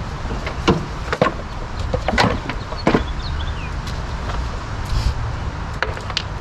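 Scattered metallic clinks and knocks, about seven in all, from hand tools and engine parts being handled during a head-gasket teardown, over a steady low rumble.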